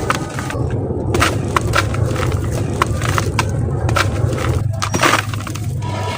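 Dry sand-cement chunks crumbling and crunching, with many sharp crackles and small snaps over a gritty hiss, and a steady low rumble underneath.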